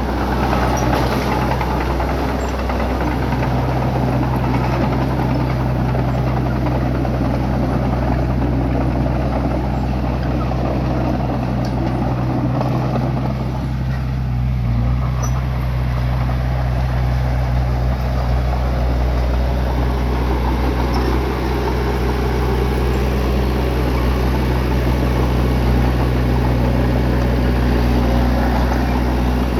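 Bulldozer's diesel engine running steadily under load, with a deep, even drone; the mid-range sound eases briefly about halfway through.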